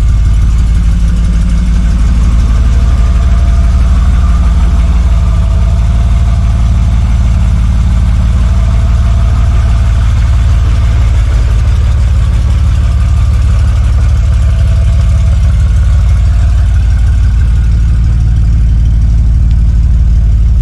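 BMW E36 rally car's engine running with a loud, steady drone that holds nearly the same pitch throughout.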